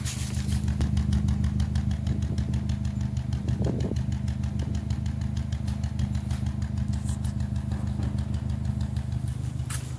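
Turbocharged Nissan Micra engine idling with a steady pulsing beat, misfiring on cylinder 3, which has dropped to 3.2 bar compression against 12 bar on the others. The owner describes it as 'misfiring like a subaru'.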